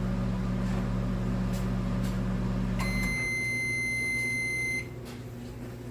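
1,000-watt microwave oven running with a steady hum that cuts off about halfway through as the cooking cycle ends. A single long, high beep of about two seconds signals it is done.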